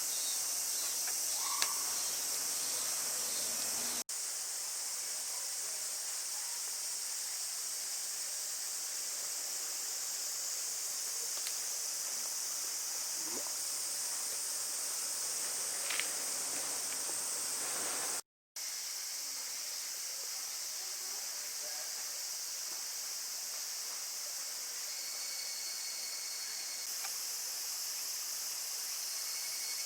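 Steady, high-pitched chorus of insects, with a few faint clicks. The sound cuts out completely for a moment about two-thirds of the way through.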